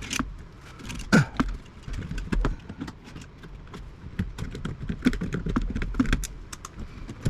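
Hand tools snipping wires and small components out of an old point-to-point-wired radio chassis: irregular sharp clicks and metal clinks, with one louder snap a little over a second in.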